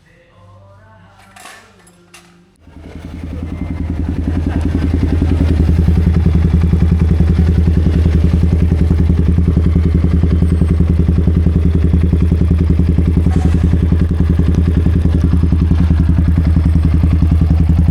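Yamaha XSR155's single-cylinder engine running steadily at a constant speed. It comes in about three seconds in and swells to full loudness within a few seconds. A couple of faint knocks come before it.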